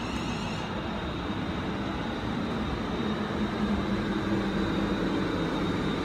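London Midland class 350 electric multiple unit running into the platform, a steady rumbling hum that grows slightly louder near the end.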